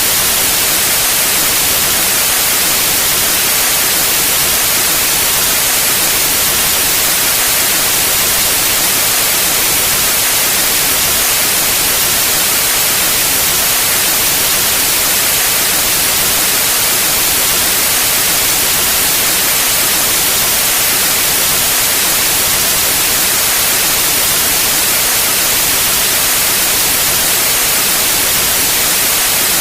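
Pure white noise: a steady, unchanging hiss, brightest in the treble, with no variation throughout.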